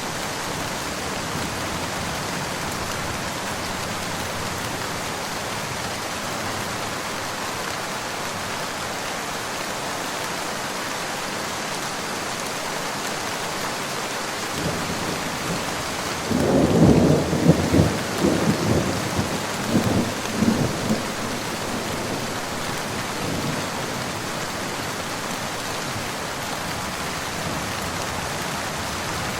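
Steady rain falling, with a rumble of thunder that builds from about halfway through, peaks in a series of low crackling peals for a few seconds, then fades back into the rain.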